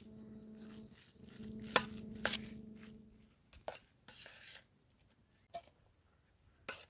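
Sharp clicks and light clinks, as of a utensil against cookware, over a steady low hum that stops about three seconds in.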